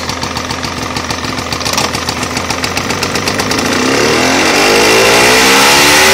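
Johnson 48 two-stroke outboard motor idling with a quick, even putter, then from about three and a half seconds in its pitch climbs and it gets louder as it is throttled up, having been shifted into reverse.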